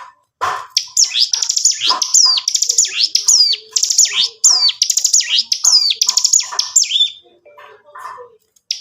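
Ciblek gunung (hill prinia) singing in a rapid, unbroken run of high chirps and quick downward-sweeping notes, about two phrases a second. It breaks off about seven seconds in, leaving a few faint scattered notes.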